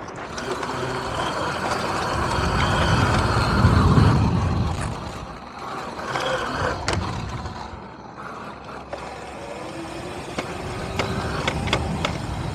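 Riding noise from an electric dirt bike on a dirt trail: continuous rumble and rattle, with a loud low swell about four seconds in and a few sharp knocks later on.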